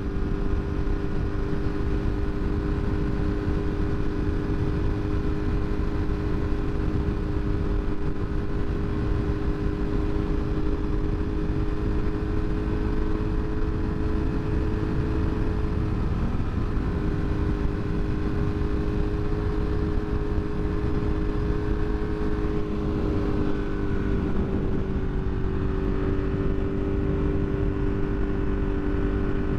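Motorcycle engine holding a steady cruise, with a constant low rush of wind noise under it. Its note sags briefly a little past halfway and again later, as through a bend, then steadies.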